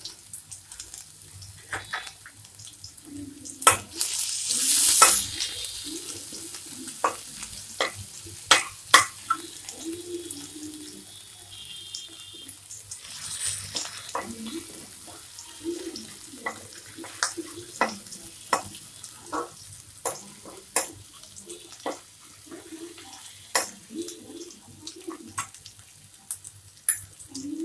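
Chopped ginger, garlic and green chillies sizzling as they fry in hot oil in a non-stick kadhai, with a spatula stirring and knocking against the pan in frequent sharp clicks. A louder hiss rises briefly about five seconds in.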